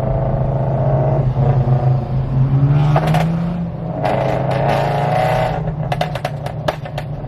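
Loud straight-piped car exhaust holding a steady drone that rises slightly in pitch partway through. Near the end it breaks into a rapid run of sharp pops and crackles: exhaust backfire.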